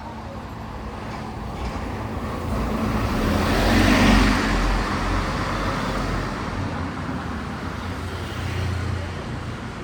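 A motor vehicle passing close by on the street, its engine and tyre noise growing louder to a peak about four seconds in, then fading away. A second, quieter vehicle swells and passes near the end.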